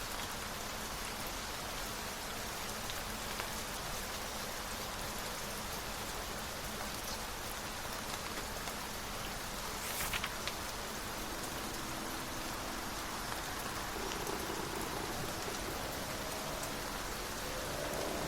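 Steady rain falling, with a brief crackle about ten seconds in. In the last few seconds a faint hum of several pitches comes in and rises.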